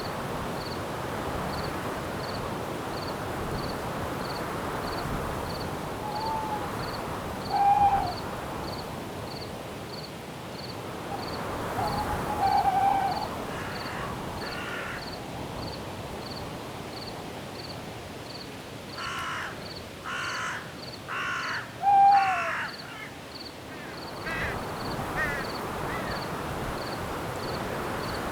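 Bird calls over a steady wind hiss in a night forest: a few short calls, then a run of four harsh calls in quick succession about two-thirds of the way through. Crickets chirp steadily in the background, an evenly spaced high chirp.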